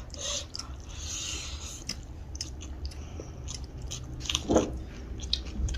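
Close-up eating sounds: a person biting and chewing food, with scattered small mouth clicks and crunches.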